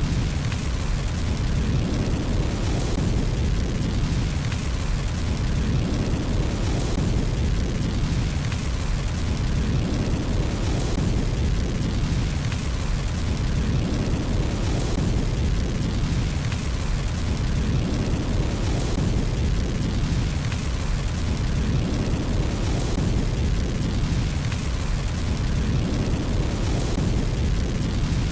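Fireplace fire burning: a steady low roar with a hiss that swells and fades evenly about every four seconds.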